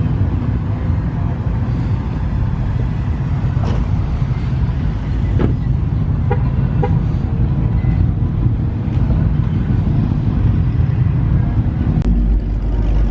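Car engines running, a steady low rumble with a few short clicks; the deepest part of the rumble grows louder near the end.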